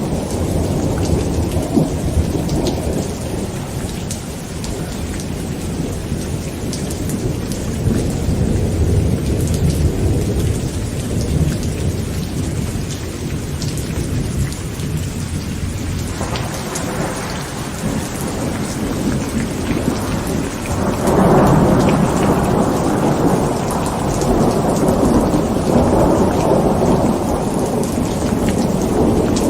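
Heavy rain pattering on a tent with thunder rumbling continuously underneath, the thunder swelling louder about two-thirds of the way through.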